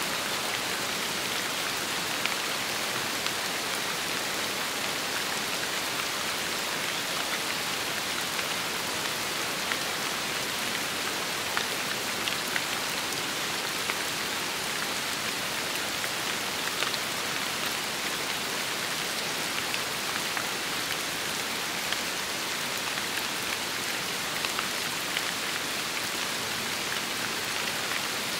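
Steady rain falling on a surface: a dense, even hiss, with many individual drops ticking through it.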